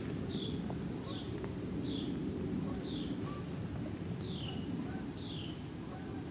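A small bird calling with short, slightly falling chirps, about one a second, over a steady low rumble.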